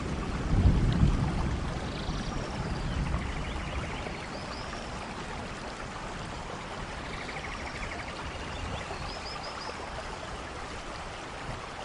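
Steady rain falling, with a low rumble of thunder that swells about half a second in and dies away over the next few seconds.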